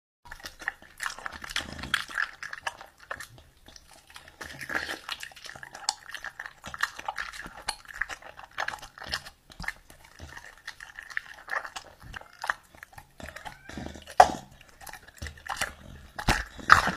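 A dog eating noisily from a steel plate: irregular clicks and clinks throughout, with one louder clink about 14 seconds in.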